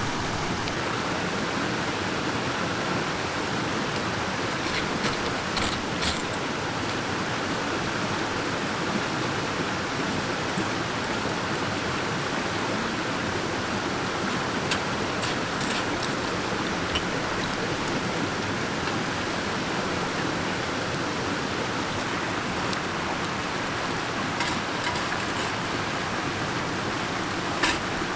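Steady rush of a mountain stream, with a few scattered short clicks.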